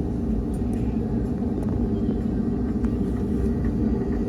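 Steady low rumble and engine hum heard inside the passenger cabin of an Airbus A220 airliner taxiing on the ground.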